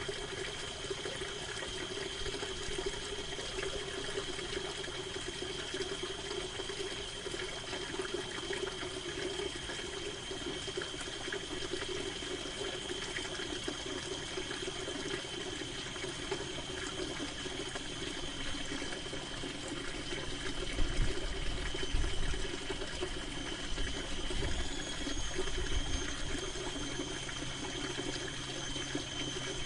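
Steady rain falling on a canvas tent, an even wash of patter with a soft reverb. About two-thirds of the way through, a low rumble of distant thunder swells for several seconds and then fades back under the rain.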